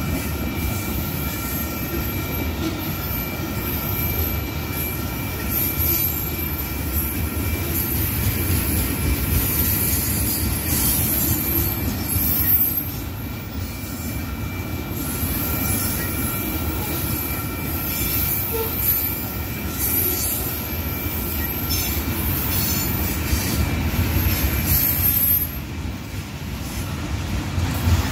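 Railroad tank cars of an ethanol unit train rolling past: a steady rumble of steel wheels on rail with a thin, steady wheel squeal over it.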